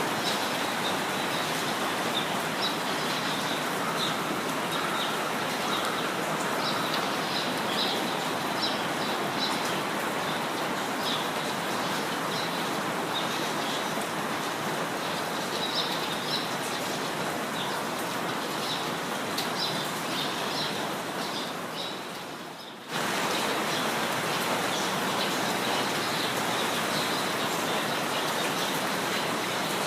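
Steady rainfall with small birds chirping in short high calls throughout. About three quarters of the way through, the sound fades down and then cuts back in abruptly, as at the join of a looped recording.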